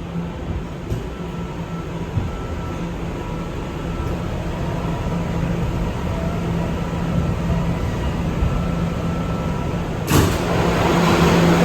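R211 subway train running, a steady hum under rail noise that grows slowly louder. A sharp knock about ten seconds in is followed by louder, rougher rail noise.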